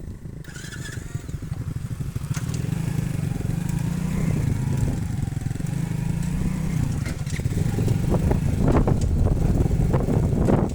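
Motorcycle engine running, growing louder over the first few seconds and then holding steady, with a series of knocks and clatter from about eight seconds in.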